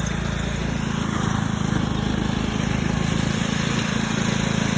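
Engine of the vehicle towing a broken-down riding lawn mower, running steadily with a low hum and growing a little louder, with rolling and rattling noise over it.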